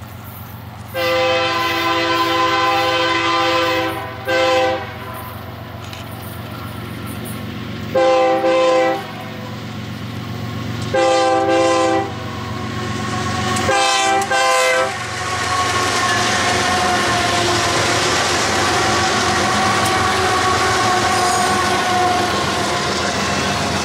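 Diesel freight locomotive's multi-tone air horn sounding a series of blasts as the train approaches: a long blast of about three seconds, a short one, two one-second blasts, then two quick ones, over a low engine rumble. About fifteen seconds in, the double-stack container cars reach the track beside the microphone and pass with a loud, steady rush of wheels on rail.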